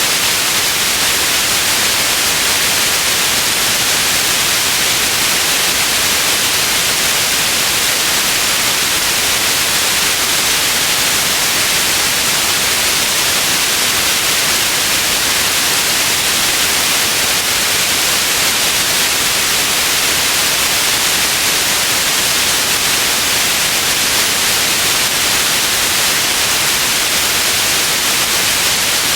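Steady white noise: an even, unchanging hiss that is brightest in the high frequencies.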